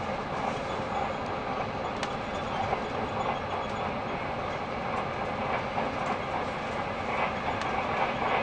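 Steady rushing running noise inside a Frecciarossa high-speed train carriage travelling at speed, with a few faint clicks.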